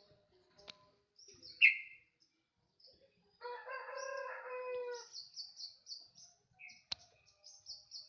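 A songbird sings rapid, repeated high chirping phrases with short pauses and one sharp louder note, while a rooster crows once for about a second and a half, a few seconds in.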